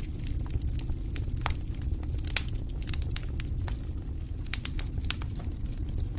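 Campfire crackling: burning wood giving off irregular sharp pops and snaps over a steady low rumble. The sharpest pop comes about two and a half seconds in.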